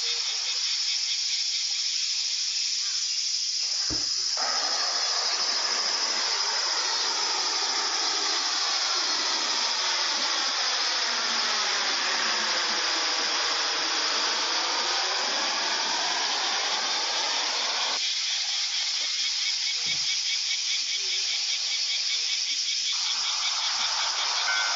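A steady high-pitched hiss throughout, with a vehicle passing the crossing from about four seconds in: its noise swells and fades away over some fourteen seconds. A single knock comes just as it begins, and a new sound starts near the end.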